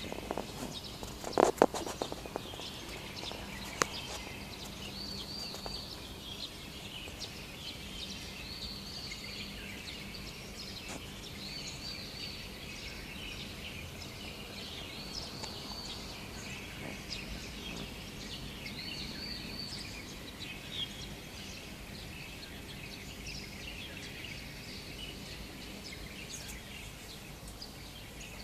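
Several birds singing in a dawn chorus, with many high chirps and one bird repeating a short arched phrase every few seconds, over a steady low city hum. A few sharp clicks sound about a second and a half in.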